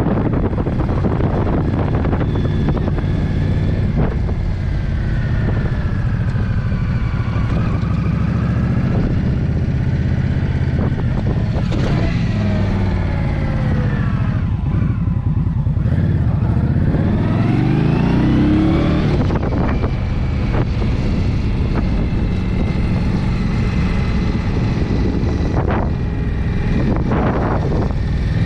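Motorcycle engine running under way, its pitch rising and falling with the throttle and gear changes, with a long rising rev about two thirds of the way through, over steady wind and road noise.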